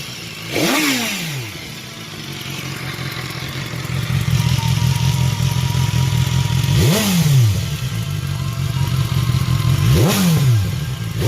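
Stock exhaust of a 2016 BMW S1000XR's inline-four engine, in Dynamic Pro mode, being blipped from idle while standing still. Four quick throttle blips, each a sharp rise and fall in pitch, come near the start, about 7 s in, about 10 s in and at the very end. Between the first two blips the engine idles, with a steadier, louder stretch from about 4 s.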